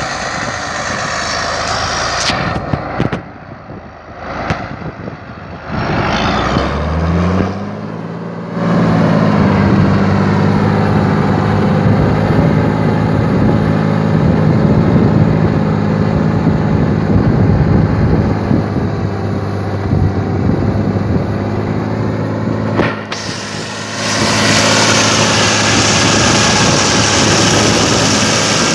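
John Deere 8200 tractor's six-cylinder diesel engine working under heavy load, pulling a Lemken Karat cultivator. It is uneven at first, then revs up about seven seconds in and settles into a steady hard pull. Near the end it dips briefly, then comes back louder with more hiss.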